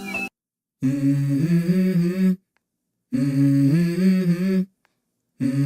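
A voice humming a short stepping melody, three phrases of about a second and a half each, separated by abrupt silent gaps.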